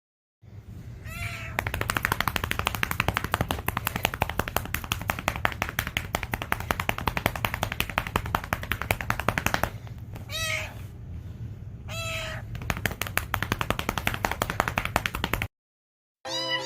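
A domestic cat meows three times over a loud, rapid purr. The purr drops away briefly between the second and third meows, then cuts off suddenly near the end.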